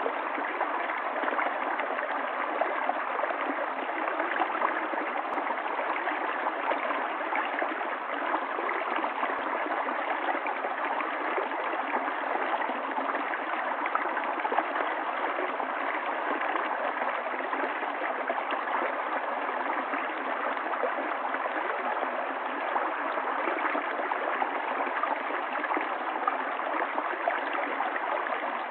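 Running water of a stream, flowing steadily and evenly.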